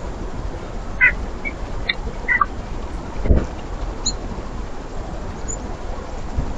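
Small birds giving short chirps and calls at a backyard feeder, scattered through the first half with a couple of faint high notes later, over a steady low rumble. A dull thump sounds about three seconds in.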